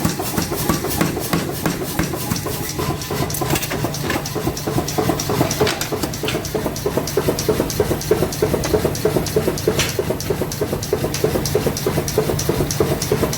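Workshop machinery running steadily: a low hum with rapid, regular clicking over it.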